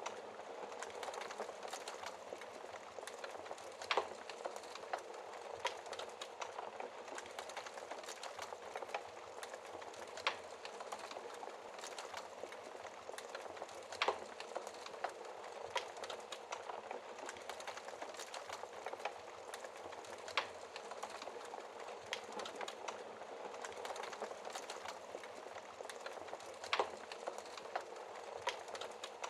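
Wood fire burning in a fireplace: a steady soft hiss of flames with irregular sharp crackles and pops from the burning logs.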